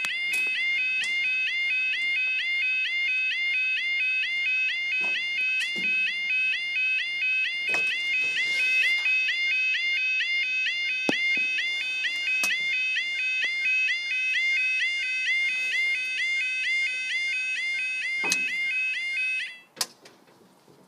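Level crossing yodalarm in night mode sounding a fast, steady, repeating warble, then cutting off sharply near the end. A few sharp clicks can be heard through it.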